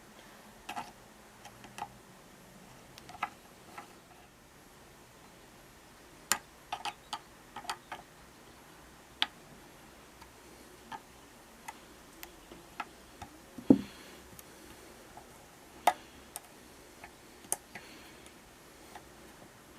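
Irregular small clicks and taps of handwork with small hard tools and parts, a few every couple of seconds, with one louder knock about fourteen seconds in.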